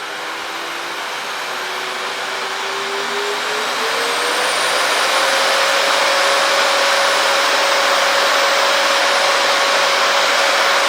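Eureka Forbes Vogue canister vacuum cleaner running. Its motor whine rises in pitch and loudness over the first five seconds or so as the suction-power knob is turned up, then holds steady at full suction.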